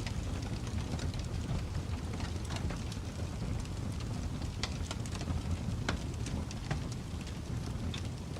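Wood fire burning in a fireplace: a steady low roar of flames with irregular sharp crackles and pops scattered throughout.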